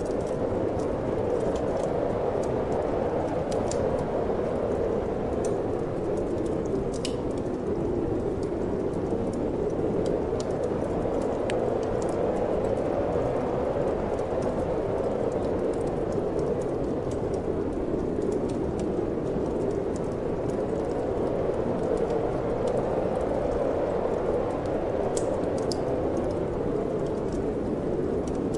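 Steady wind that slowly swells and eases, with scattered faint crackles and pops from a wood fire burning in a fireplace.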